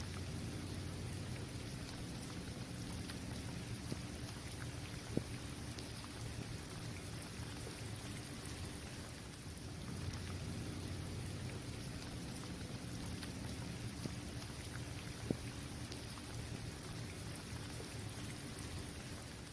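Steady rain falling on the hard surface of an outdoor basketball court. Two louder single drop impacts stand out, about five seconds in and again about fifteen seconds in.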